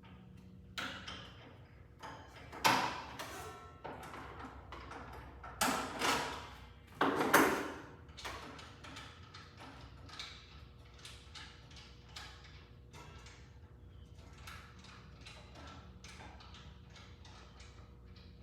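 Metal parts and tools being handled during a miter saw blade change: a few loud knocks and clanks with a short ring, then a long run of light irregular clicks.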